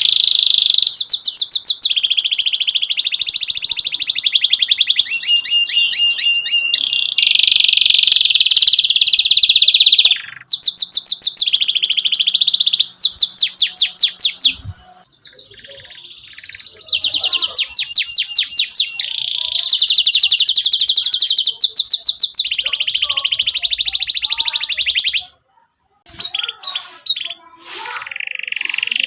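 Domestic canary singing long, loud phrases of rapid repeated high notes (trills and rolls), broken by two short pauses, one about halfway through and one near the end.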